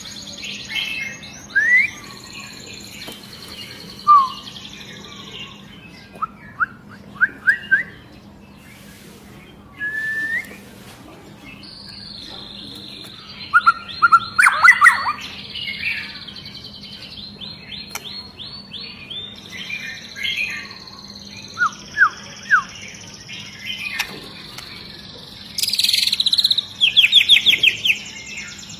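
White-rumped shama singing: a varied string of clear whistles, quick runs of short down-sweeping notes fired close together, and high rapid trills, the loudest run near the end. A faint steady hum lies under it.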